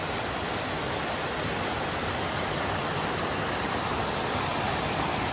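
Waterfall splashing down, a steady rush of falling water.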